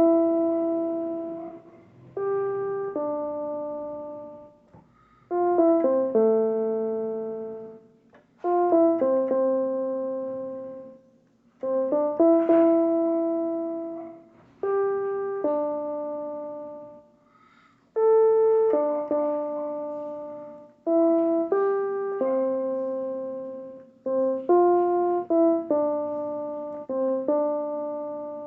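Solo piano playing a slow worship melody in phrases. About every three seconds a quick group of notes is struck and then held, fading away, with no singing.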